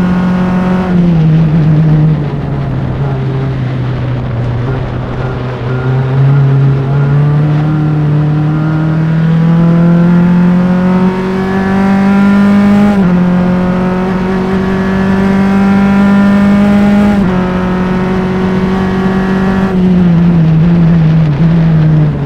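Single-seater race car engine at full throttle, recorded close to the engine. The pitch climbs steadily, with short drops at gear changes, then falls in steps near the end as the car slows for a corner.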